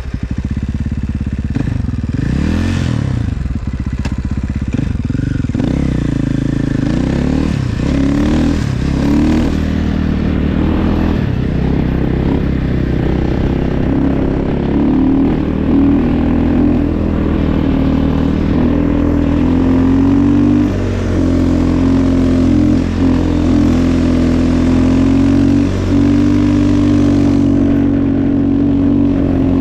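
Snow bike engine running hard, a dirt bike fitted with a snow track. It revs up and down over the first ten seconds, then holds a steady, loud pull.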